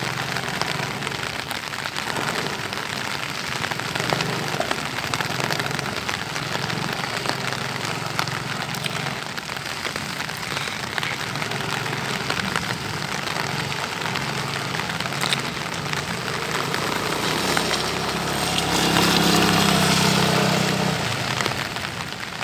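Heavy rain hissing steadily on wet pavement, with the low hum of a Yamaha XMAX 250 scooter's engine as it rides around. The engine grows louder between about three-quarters of the way through and near the end.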